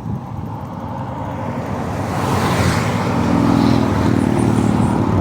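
Road and engine noise of a moving car, swelling louder about two seconds in and staying up, with a steady low hum underneath.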